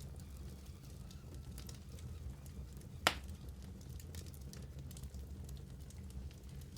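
Wood fire in a fireplace crackling, with scattered small snaps over a low steady rumble of the flames. One loud sharp pop comes about three seconds in.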